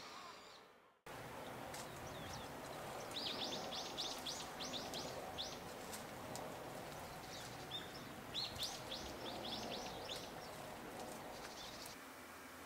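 Outdoor ambience with a songbird calling: two runs of quick, high, falling chirps, one a few seconds in and another past the middle, over a steady background noise.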